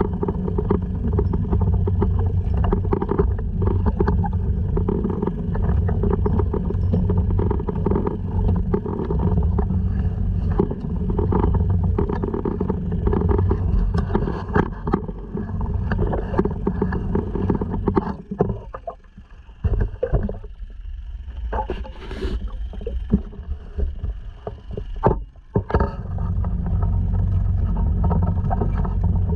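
Honda 2.3 four-stroke outboard motor running steadily on a sea kayak, with water and wind noise. Past the middle the engine sound drops away for several seconds, with a few scattered knocks, then comes back up to its steady running level.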